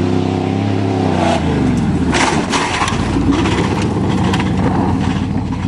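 1988 Chevy pickup's engine running hard at steady high revs, then its pitch falls away about a second and a half in as the throttle comes off. Loud rough rumbling follows, with repeated knocks and rattles from the truck going over rough ground.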